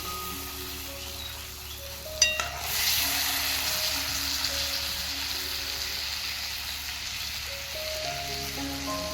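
Food sizzling in hot oil in a pan, with a sharp clink a little over two seconds in after which the sizzle gets louder, as something is added to the pan. Soft background music plays underneath.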